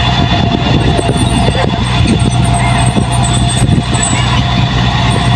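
Diesel engine of a heavy farm or earth-moving machine running steadily under load, with a steady thin whine above the engine hum.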